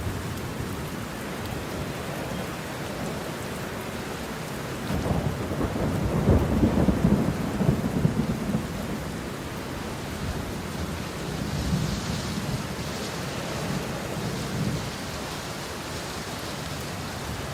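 Steady rain with a roll of thunder that swells about five seconds in and fades by about nine seconds. A second, weaker rumble follows a few seconds later.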